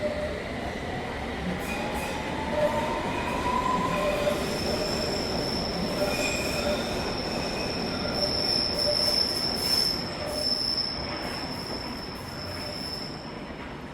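Train running on rails with a steady rumble and a motor whine rising in pitch over the first few seconds. A long, high wheel squeal starts about four seconds in and holds until near the end.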